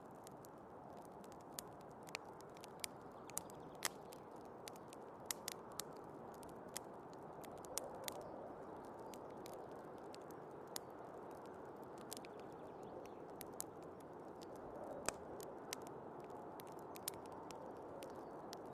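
Wood fire crackling, with irregular sharp pops, over the steady low rush of snowstorm wind.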